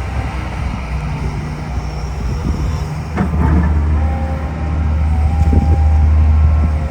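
Hitachi ZX210LC-7 hydraulic excavator's diesel engine running with a steady low hum that gets louder about three seconds in, with a brief clatter just as it does.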